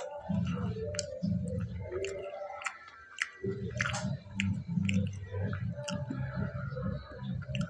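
A man chewing a mouthful of fried pakora close to a lapel microphone, with wet clicks and smacks of the mouth. The chewing stops for about a second midway, then goes on.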